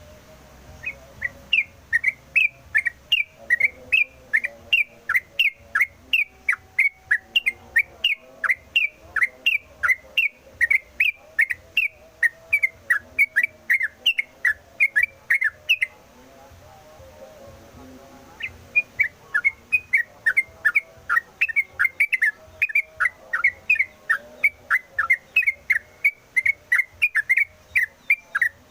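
Yellow-vented bulbul (trucukan) singing a fast, unbroken run of sharp, downward-sliding whistled notes, about three a second. It sings in two long bouts with a pause of a couple of seconds midway.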